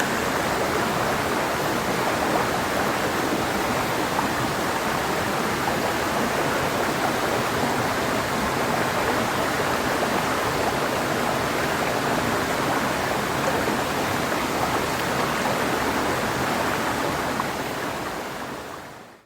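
Clear mountain river flowing over rocks: a steady, dense rush of water that fades out near the end.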